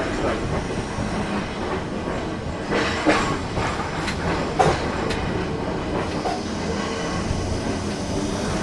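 Heritage electric tram running along the track, heard from on board: a steady rumble with a few sharp clicks and knocks from the wheels over the rails, bunched around three to five seconds in.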